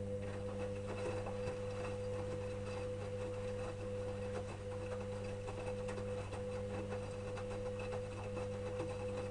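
Electrolux EWS 1045 washing machine's motor turning the drum in a wash tumble: a steady motor whine over a low hum, with many small clicks from the load. The whine cuts off at the end as the drum stops for its pause between turns.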